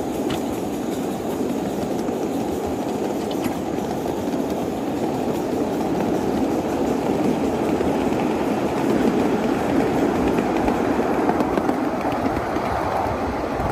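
A 1/8-scale riding train rolling along its track: a steady rumble of wheels on rail with a few faint clicks.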